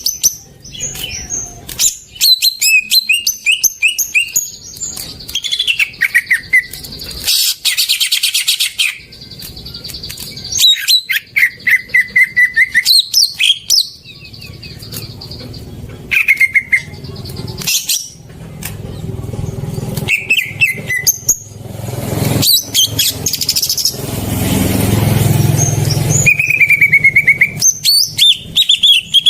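Greater green leafbird (cucak ijo) singing a rapid, varied song of sliding whistles, chirps and clicking notes. It is broken by two longer harsh, noisy stretches, the longer one starting a little past the middle.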